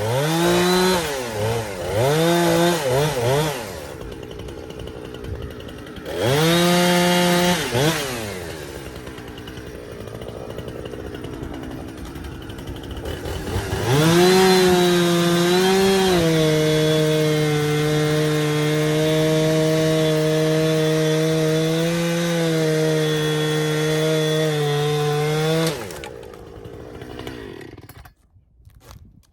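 Gas chainsaw revved in short bursts, idling, then held at high revs for about twelve seconds with slight dips in pitch, as when cutting wood. It drops away near the end.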